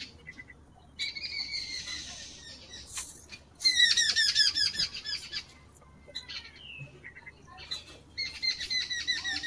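A bird calling in three bursts of rapid, repeated squawking notes, the loudest about four seconds in.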